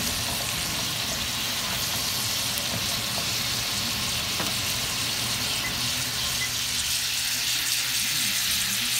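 Diced chicken with sliced green peppers and onions sizzling steadily in a hot frying pan.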